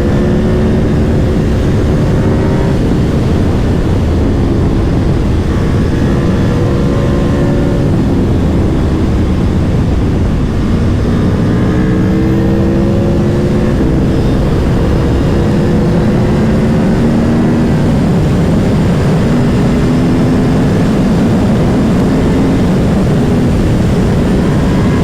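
Aprilia Tuono V4 Factory's V4 engine pulling hard through the gears: its pitch rises for a few seconds, then drops at each upshift, several times over, under heavy wind rush.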